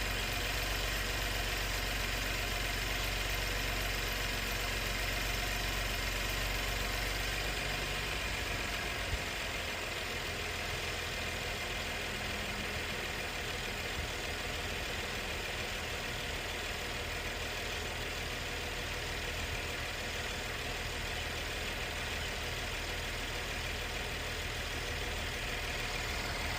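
2017 Chevy Camaro's GM V6 engine idling steadily with a low hum, running after a thermostat and coolant sensor replacement and a coolant refill. The low hum shifts slightly about eight seconds in.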